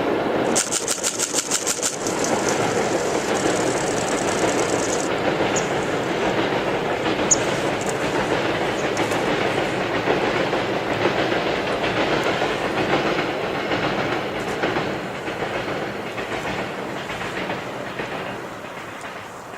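Freight train hauled by double-headed EF64 electric locomotives passing: a quick, even run of wheel clacks over rail joints for about a second and a half, then the steady rolling rumble of the wagons, which fades over the last few seconds as the train moves away.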